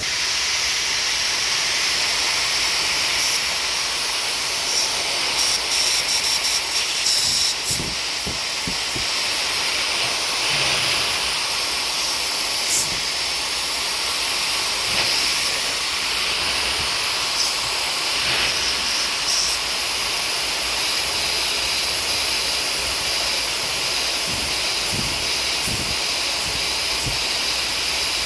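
Compressed air hissing steadily as it is blown through a diesel truck's fuel supply line to clear the dirt clogging it, with a few brief sputtering spurts about five to seven seconds in.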